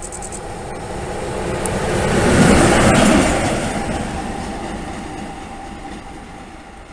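SM42 diesel shunting locomotive running light past, its diesel engine and wheels on the rails growing louder to a peak about two and a half seconds in, then fading away.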